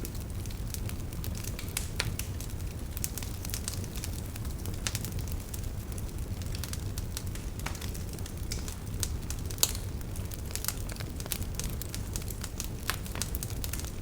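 Fire burning in a fireplace, crackling and popping at irregular moments over a low steady rumble, with one sharper pop near the middle.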